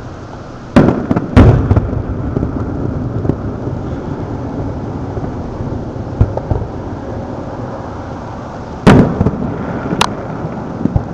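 Aerial fireworks shells bursting: two loud bangs about a second in, a low rumble between them, and two more bangs near the end.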